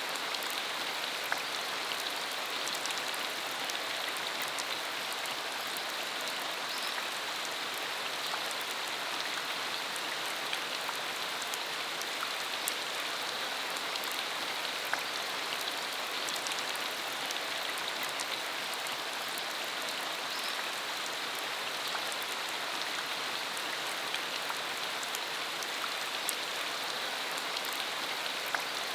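Steady rain falling on a dirt country road, with many separate drops ticking through the even hiss.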